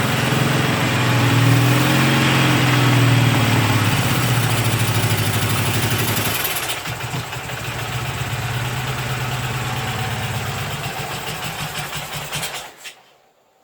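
K750M motorcycle's side-valve boxer-twin engine running, freshly revived after 26 years laid up. Its revs rise and fall over the first few seconds, it runs on more quietly, and it cuts out suddenly about a second before the end.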